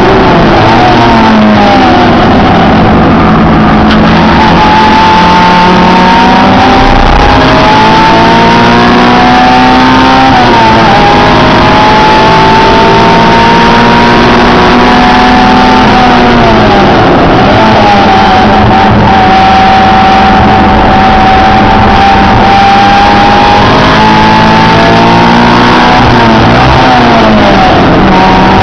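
Honda Integra Type-R engine at racing speed, heard from inside the cabin and recorded loud and distorted. The pitch climbs under acceleration and drops sharply at gear changes and braking several times.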